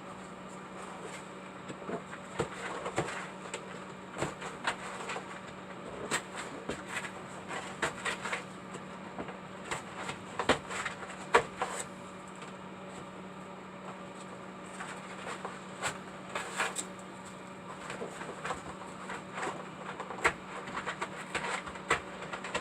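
Irregular scraping and clicking of material being dug out by hand, in uneven clusters, over a steady electrical hum.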